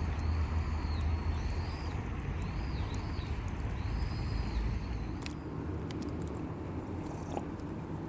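A bird calling in high, arched whistled notes in three short groups, over a low rumble that eases off about five seconds in, with a few faint clicks.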